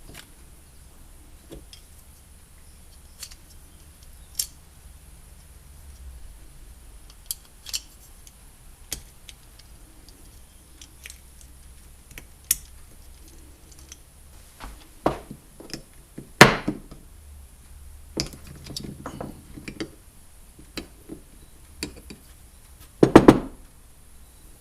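Small metal trolling-motor parts and hand tools clicking and clinking as the motor's lower unit is taken apart by hand, with scattered light taps and two louder knocks in the second half.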